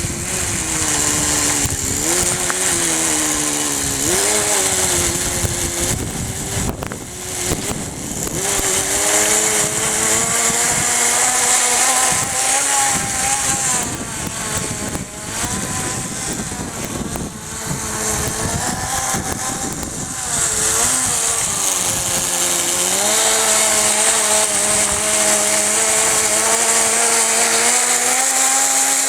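Kyosho Nitro Blizzard's small two-stroke nitro glow engine running with a high buzz, its revs rising and falling as the throttle is worked, dipping several times and climbing steadily near the end.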